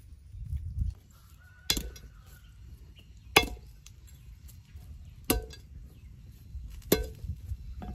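Five sharp knocks about a second and a half apart: a knife chopping food on a wooden board.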